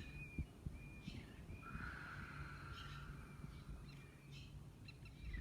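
Birds calling outdoors: a series of short, high repeated notes and one longer call about two seconds in, over a low steady rumble.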